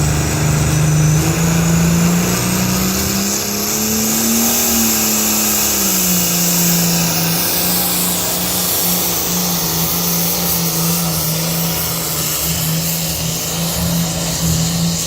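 A pulling tractor's engine running loud under heavy load. Its pitch rises a few seconds in, then settles back to a steady drone, with a high whine climbing and falling above it.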